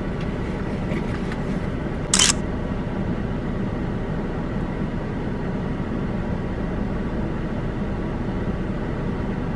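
Car driving, with steady road and engine noise heard from inside the cabin. There is a brief sharp hiss about two seconds in.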